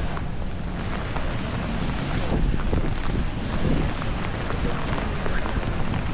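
Heavy rain falling with a steady hiss and many small drop hits, while wind gusts on the microphone add a low rumble.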